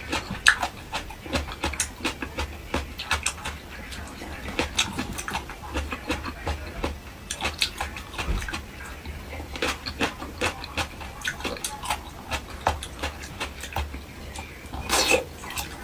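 Close-miked eating sounds: wet chewing and lip-smacking clicks, irregular and several a second, with a longer, louder noisy sound about a second before the end.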